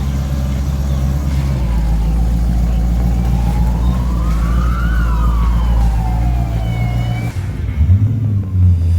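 A car engine running with a steady low drone, then revving unevenly near the end. In the middle, a thin whine climbs in pitch for a few seconds and falls away again.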